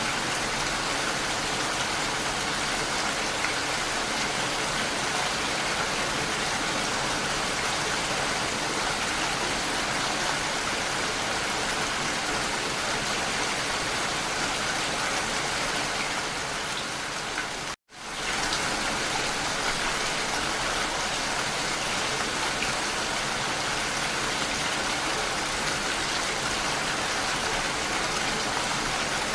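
Steady rain falling, an even hiss of drops. It cuts out for a split second about two thirds of the way in and then comes straight back.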